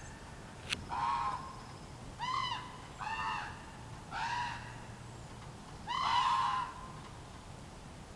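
A bird calling repeatedly: five short calls, each a brief rise and fall in pitch, spaced one to two seconds apart, with a longer gap before the last one.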